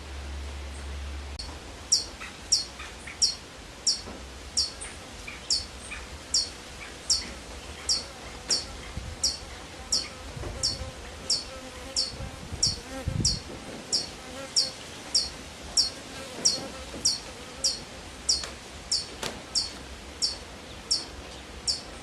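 An animal's short, very high call repeated steadily, about three notes every two seconds.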